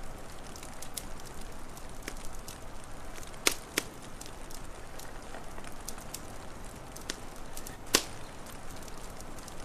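Wood fire crackling, with scattered sharp pops over a steady hiss: two loud pops in quick succession about halfway through and another loud one near the end.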